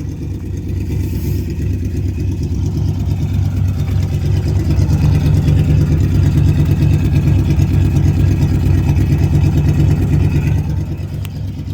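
Old pickup truck's engine running just after a cold start in freezing weather, a steady engine note that grows louder about four seconds in and eases back near the end.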